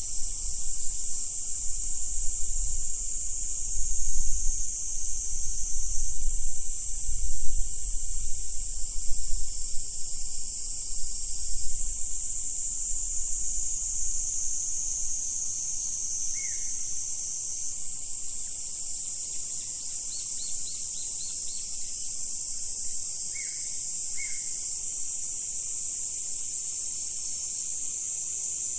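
Steady high-pitched chorus of calling insects, with a few short falling bird calls and a quick run of chirps in the second half. A low wind rumble sits under the first half.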